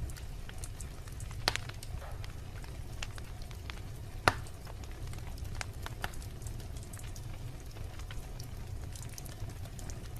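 Wood logs burning in a fireplace: a steady low rumble of flames with scattered sharp crackles and pops, two louder pops about a second and a half in and just after four seconds in.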